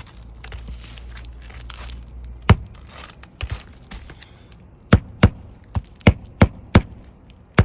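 Asphalt shingle being handled with a rustle, then a hammer driving roofing nails through it: a few single strikes, then a steady run of blows about three a second.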